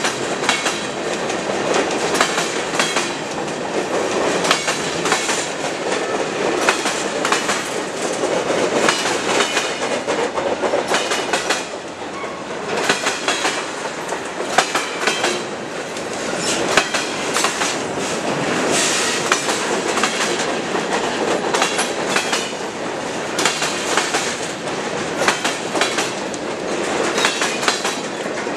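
Freight cars of a passing train rolling by close, steel wheels clicking and clacking over the rail joints with a steady rumble and rattle.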